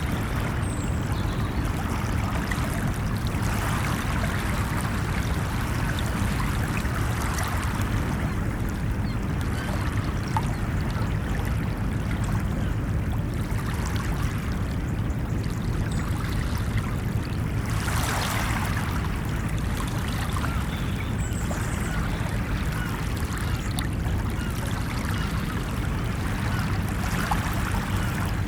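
Ocean surf washing onto a beach: a steady low rumble of water, with the wash swelling and splashing now and then, most strongly about two-thirds of the way through.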